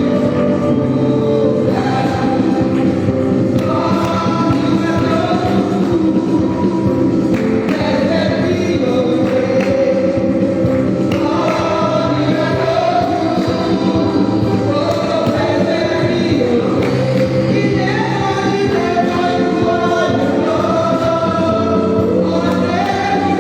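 Gospel singing by a group of voices over steady instrumental accompaniment, with sung notes held and changing every second or two.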